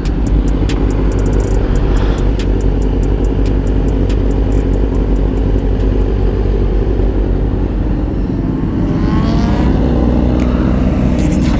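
Sportbike engines running as a group of motorcycles pulls out, with one engine revving up in a rising pitch about nine seconds in.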